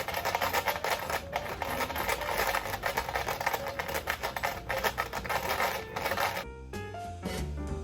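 A handful of Japanese coins (one 1-yen, one 5-yen, six 10-yen and two 100-yen) jingling as their container is shaken by a jiggling leg. The rapid jangling stops abruptly about six and a half seconds in.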